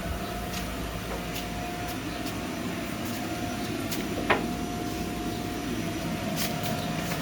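Paint booth ventilation fans running steadily, a rumble with a thin steady hum over it. A single sharp click sounds about four seconds in.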